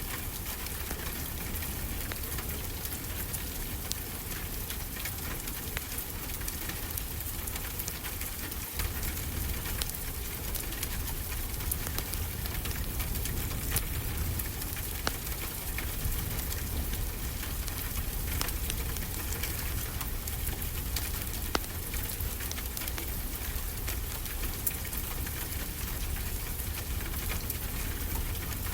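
Steady rain with a low rumble underneath, mixed with scattered sharp crackles and pops from a wood fire.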